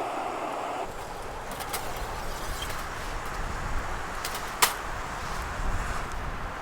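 Steady wind noise with low buffeting rumble and a few sharp clicks or knocks, the loudest about four and a half seconds in. The sound changes abruptly about a second in, from a higher hiss to the low rumble.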